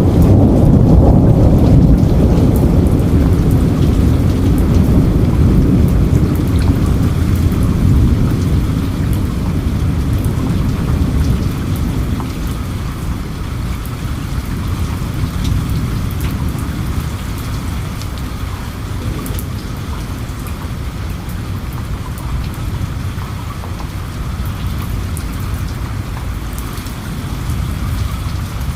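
Steady rain falling, with scattered drops ticking close by. A long, low roll of thunder is loud at the start and fades away over the first ten seconds or so.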